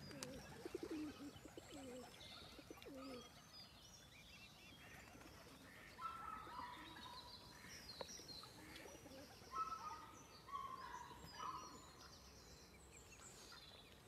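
Faint bird calls: a few short, wavering low calls early on, then scattered chirps and short calls at about 6 seconds and again between about 9 and 12 seconds, over a quiet outdoor background.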